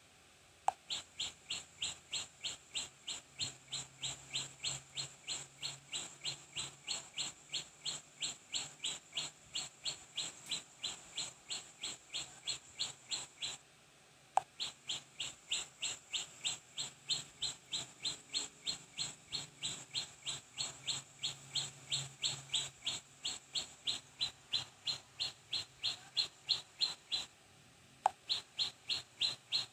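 A bird's short, falling chirps repeated evenly, about three a second, in a looped recording that breaks off and restarts with a click about halfway through and again near the end.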